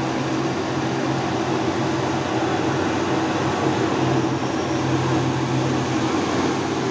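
A heavy truck's diesel engine labouring steadily up a steep climb, with a low steady drone, over a constant hiss of rain and wet road.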